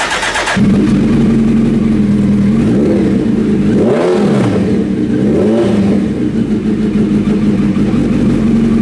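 2006 Suzuki Hayabusa's inline-four engine, breathing through a Brock's aftermarket exhaust, is cranked by the starter and catches about half a second in. It settles into a steady idle and is revved up and back down three times in the middle, then returns to idle.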